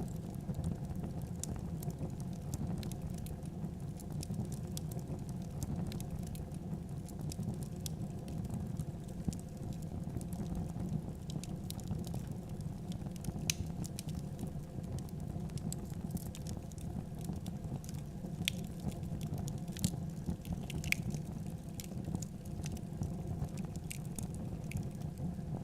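Wood fire crackling: irregular sharp pops and snaps over a steady low rumble of burning, with a few louder pops in the second half.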